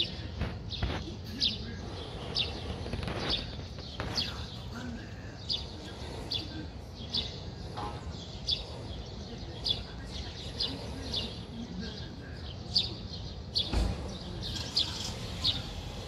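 Small birds chirping: short, high chirps repeated about once a second over a low, steady background rumble.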